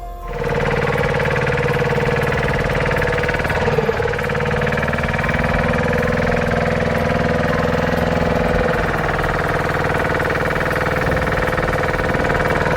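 John Deere tractor engine running hard at steady high revs, with a brief wobble in pitch about four seconds in.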